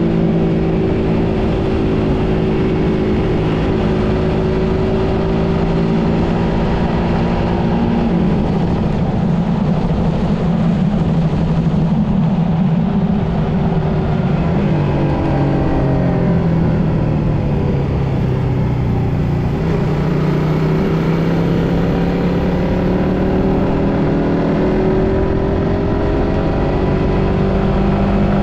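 Suzuki GSX-S150's single-cylinder four-stroke engine running under way. Its pitch falls around the middle as the rider eases off, then rises steadily toward the end as the bike accelerates.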